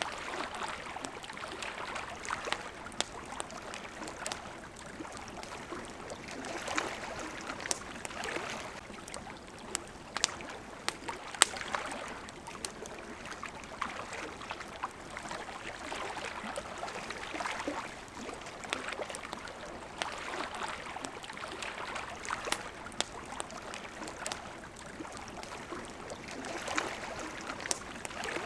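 Small waves lapping at a shore, swelling and ebbing every few seconds, with the scattered sharp snaps and pops of a crackling wood campfire.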